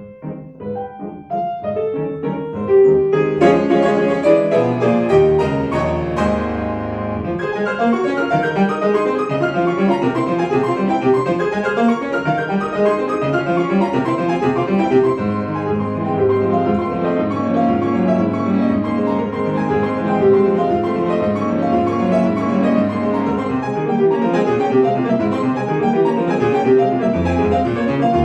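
Solo piano playing classical music: a few quieter notes, then loud, dense playing from about three seconds in that carries on.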